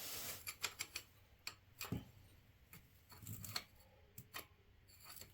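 Faint, irregular light clicks and taps from small tools and metal parts being handled during work on a motorcycle engine case.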